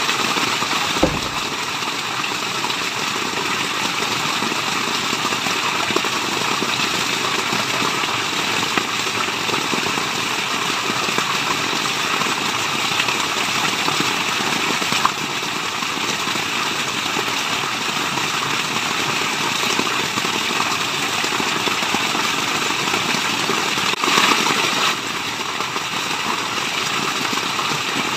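Running water rushing steadily, like a waterfall or stream, with a few brief sharp clicks and a short louder swell near the end.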